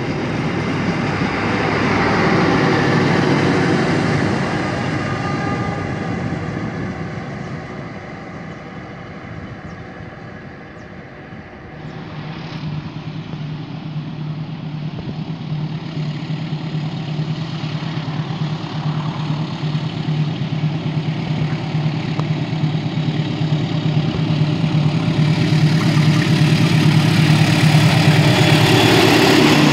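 Passenger carriages rolling past on the rails, fading away over the first ten seconds or so. Then a CC206 diesel-electric locomotive hauling a container freight train approaches with a steady low engine drone that grows louder toward the end.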